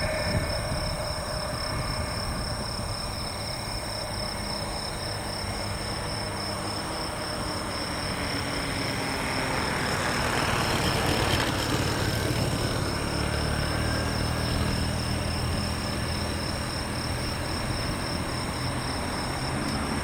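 Jet engines of an E-8 JSTARS, four TF33 turbofans, running at low taxi power: a steady rumble that swells with a louder rushing hiss around the middle, then settles back.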